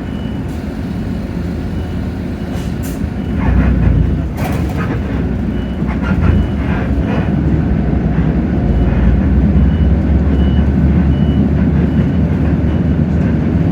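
Hino J08E inline-six diesel in a Hino RK8JRVA city bus running under load, heard from inside the bus, pulling harder from about three and a half seconds in. A short hiss comes near four and a half seconds, and a faint high beep repeats about twice a second through most of it.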